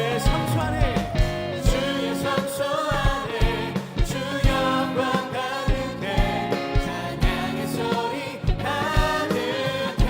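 Worship band and singers performing a contemporary Christian praise song: voices singing over a steady drum beat of about two kicks a second.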